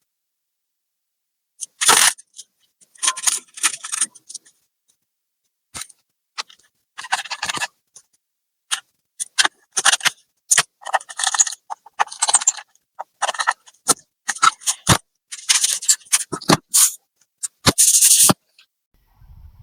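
Laptop being worked on by hand: an irregular run of short clicks, scrapes and rattles of plastic and small metal parts, with silent gaps between them.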